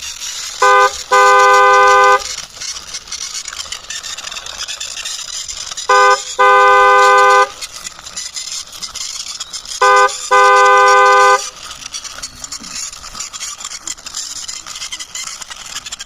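A car horn honking three times, each a short beep followed by a longer beep of about a second.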